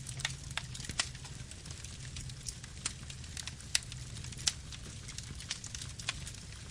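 Campfire burning: a steady low rumble of the flames with irregular crackles and sharp pops of the burning wood, the loudest pops about a second in and twice more near the middle.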